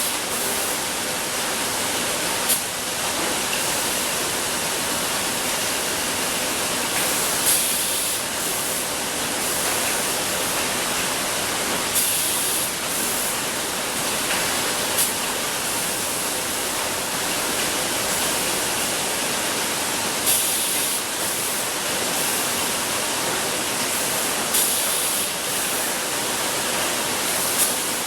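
Bottled-water production-line machinery running with a steady rushing noise, broken every few seconds by short, sharp hisses.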